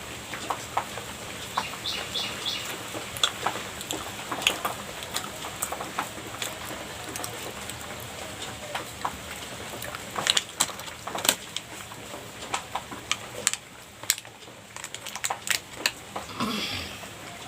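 Close-up eating sounds of someone chewing soft cream pastry: irregular wet mouth clicks and smacks, coming as quick scattered ticks.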